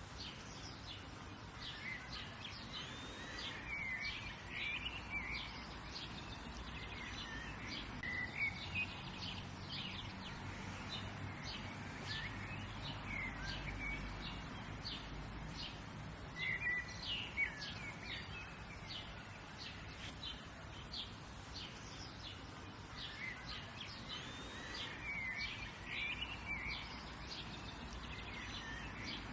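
Several songbirds chirping and calling outdoors, many short high chirps and whistled phrases coming in clusters, over a steady soft background hiss and a faint low rumble.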